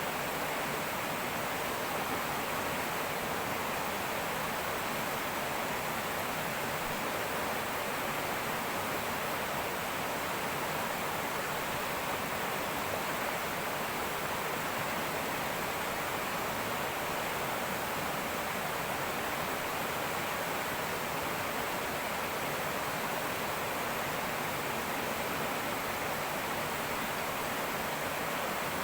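Fast-flowing river rushing over rocks: a steady, even rush of water with no breaks or changes.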